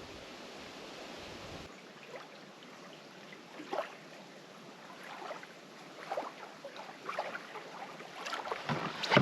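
Canoe being paddled on calm water: soft, irregular paddle splashes and drips, busier toward the end.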